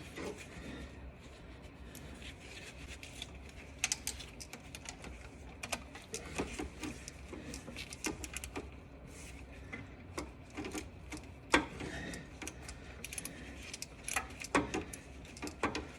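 Faint, irregular metallic clicks and taps of a hand wrench on the nut of the small-wire terminal on a car starter, as it is loosened, over a low steady hum.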